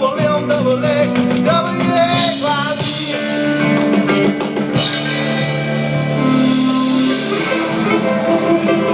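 A rock band playing, with guitars, drums and some singing.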